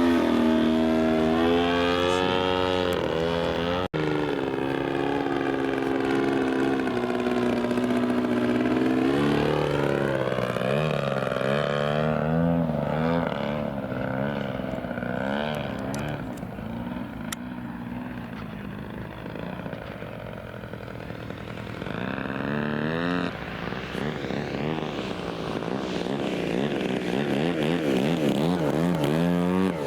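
Radio-controlled model airplane engine in flight, its pitch sweeping up and down as the plane makes passes. It fades somewhat through the middle and comes back louder near the end, with a momentary dropout about four seconds in.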